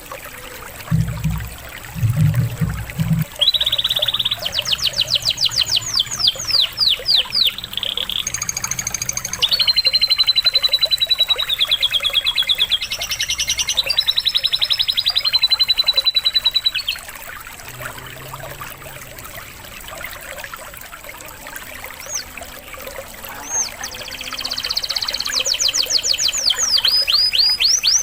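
Domestic canary singing long runs of rapid trills and repeated notes over steadily trickling water. The song breaks off for several seconds in the middle, then starts again near the end.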